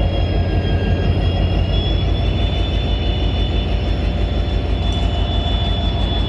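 WDG4D diesel-electric locomotive running steadily, heard from inside the cab: a deep, even throb from the engine with a thin, steady high whine over it.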